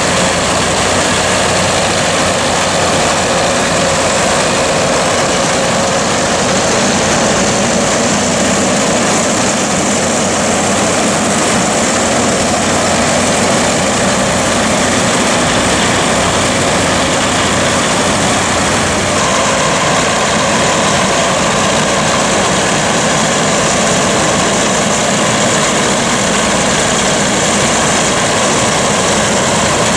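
Massey Ferguson tractor engine working under load with a forage harvester running behind it, a loud, steady mechanical din. A steady higher whine joins in about two-thirds of the way through.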